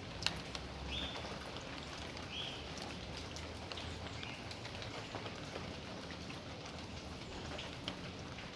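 Steady rain falling, with individual drops tapping close by. A few short high chirps come through the rain in the first half.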